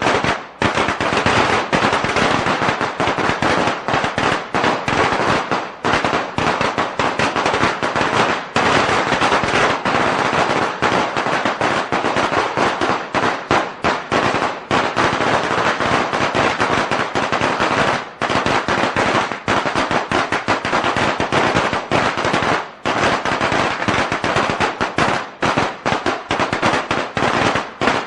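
A string of firecrackers going off in a rapid, unbroken crackle of bangs, with a couple of brief lulls.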